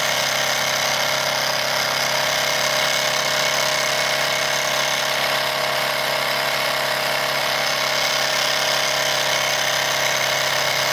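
Wilesco D101 toy steam engine with a small double-acting cylinder running steadily under steam, driving its line shaft with a miniature grinder and circular saw, giving an even, unchanging mechanical whir.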